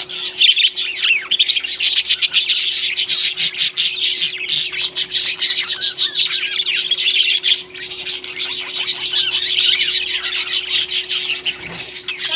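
Pet parrots chirping and chattering continuously in a dense stream of rapid high chirps, with a faint steady hum underneath.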